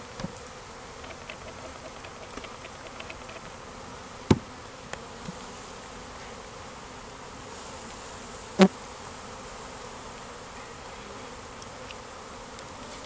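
A swarm of honeybees buzzing steadily, with two sharp knocks about four seconds apart, the second the loudest.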